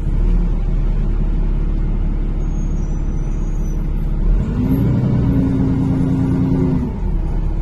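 Inside a NefAZ-5299 city bus under way: steady engine and road rumble. About four and a half seconds in, a pitched tone rises briefly, holds steady for about two and a half seconds, then stops.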